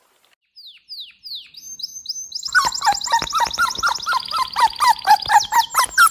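Birds chirping: a few separate high, falling chirps, then, about two seconds in, a fast, continuous high trill with lower repeated notes under it.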